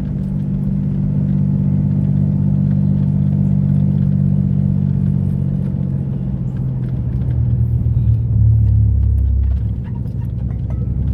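Mitsubishi 3000GT's SOHC 3.0-litre V6 running through an exhaust with gutted catalytic converters, a steady low engine note. The note shifts lower and swells about eight seconds in, then briefly dips.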